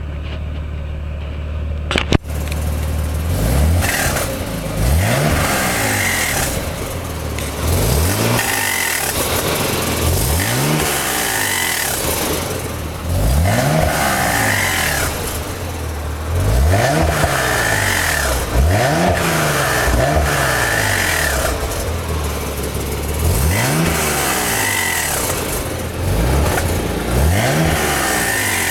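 Nissan 300ZX twin turbo's 3.0-litre V6 idling, then blipped repeatedly, with the revs rising and falling every second or two. Each time the throttle is released, the owner hears a weird noise.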